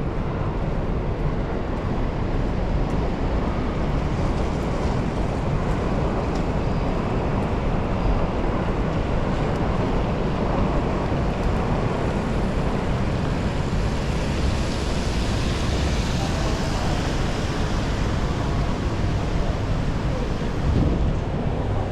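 Strong wind rumbling and buffeting on the microphone over steady rain and city street noise, with a brighter hiss swelling for a few seconds past the middle.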